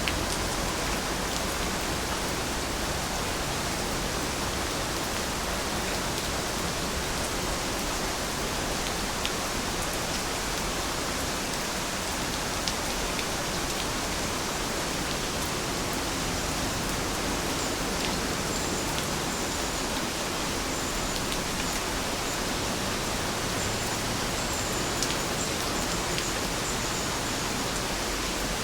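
Steady rain falling, an even dense hiss with scattered sharper drop ticks. Faint short high chirps come in over the second half.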